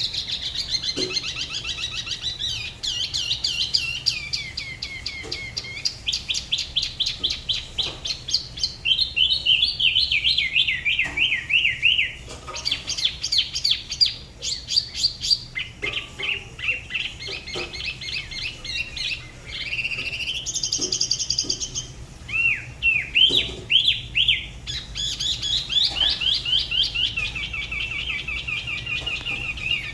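Spot-throated babbler singing a long, varied song of rapid trills and warbling phrases, many sliding down in pitch, with only short breaks between phrases.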